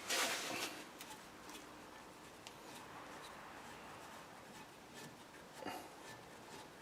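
Hand work on the brake assembly: a short rustling scrape at the start, then faint scattered clicks and rubbing, with one more brief scrape near the end.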